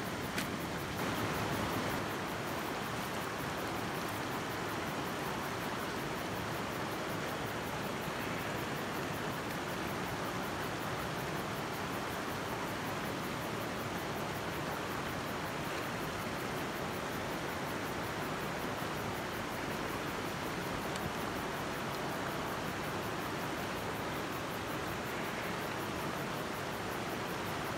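Steady rushing of creek water, an even hiss-like noise that stays level throughout.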